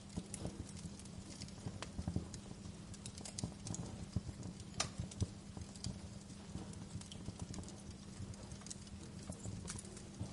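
Wood fire crackling, with scattered sharp pops over a low steady rumble and a louder pop about five seconds in.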